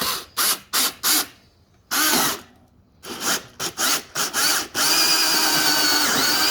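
Power drill boring through the plastic housing of a Tesla Gen 3 Wall Connector: a series of short bursts for the first few seconds, then a steady run from about five seconds in as the bit cuts through.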